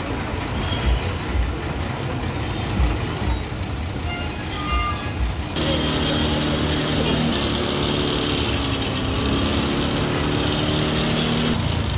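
Heavy trucks running, with a low rumble and thumps and short high tones over them. About halfway through, the sound switches abruptly to steady tones that step in pitch every second or so.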